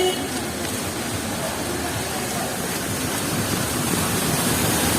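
Steady hiss of heavy rain mixed with traffic on wet city streets, growing slightly louder toward the end.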